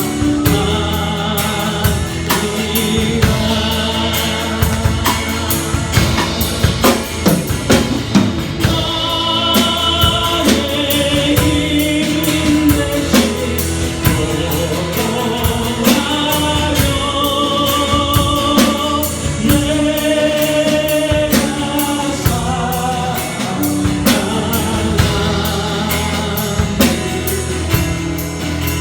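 A church worship team singing a gospel praise song, backed by a band with a drum kit keeping a steady beat.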